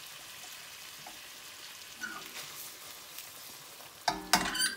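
Potatoes and cauliflower frying in oil in a wok, a faint steady sizzle as they are stirred with a spatula, with a louder clatter of knocks near the end.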